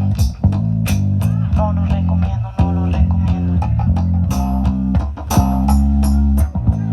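A band playing live: bass guitar holding a steady low line, an electric guitar playing a melodic lead above it, and drums keeping a regular beat.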